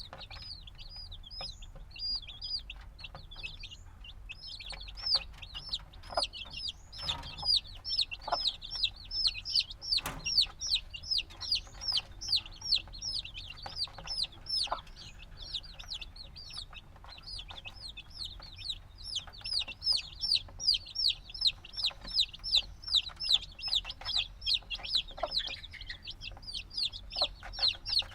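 Chicks a few days old peeping: a steady run of short high peeps, about three a second, thinner in the first few seconds and then continuous, with a few faint knocks among them.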